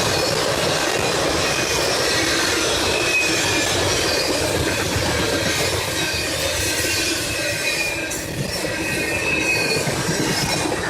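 Cars of a CSX intermodal freight train rolling past, with a steady rolling noise and a high, wavering wheel squeal.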